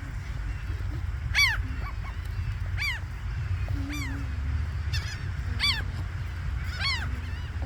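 Seagulls calling, a run of short squawks that rise and fall in pitch, about one a second, over a steady low rumble.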